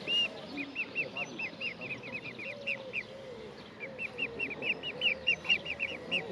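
Mute swan cygnets peeping: a quick run of short, high-pitched calls, about four to five a second, pausing for about a second midway before starting again.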